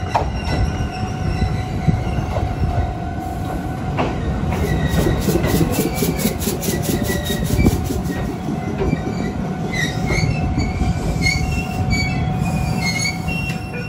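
An Iyotetsu 700-series electric train pulling slowly alongside a platform: a steady rumble of wheels on rail, a fast even run of clicks in the middle, and short squeals of the wheels and brakes near the end as it slows.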